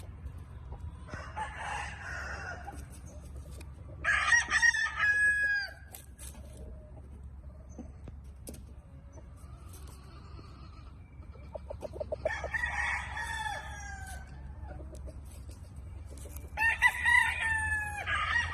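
Gamefowl roosters crowing, four crows in turn, the loudest about four seconds in and near the end, over a steady low hum.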